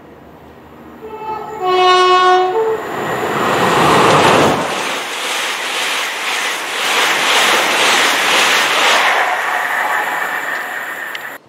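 An LNER Azuma (Class 80x) high-speed train sounds its two-tone horn about a second in: a short higher note, then a longer lower one. It then passes through the station at speed with a loud, steady rush of wheels and air that cuts off suddenly near the end.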